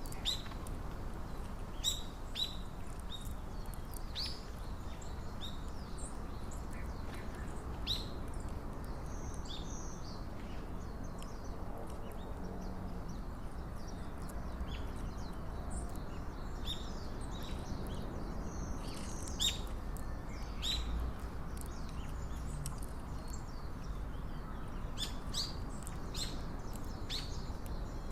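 Small birds giving many short, sharp chirps, scattered through and clustering near the end, over a steady low background rumble.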